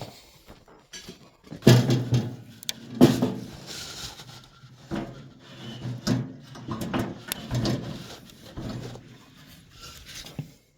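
Knocking and clattering of a gas convector's metal body being handled and hung on a wall, with several short grunt-like vocal sounds among the knocks, the loudest about two and three seconds in.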